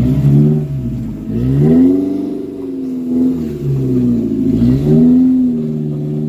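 Off-road 4WD engine revving hard under load, its revs rising and falling about four times.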